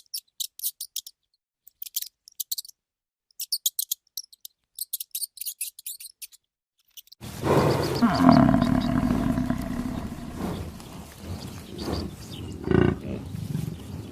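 A run of short, sharp high chirps. About seven seconds in, a loud low animal call starts, followed by several shorter, fainter calls.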